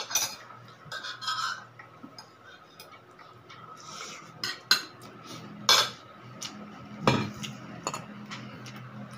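Metal spoon clinking and scraping against dishes and a plate in a series of separate strikes, as food is served out.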